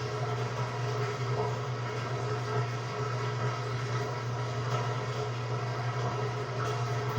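Samsung WA45T3200AW top-load washer with impeller running mid-cycle: a steady, even hum with no breaks or rhythm.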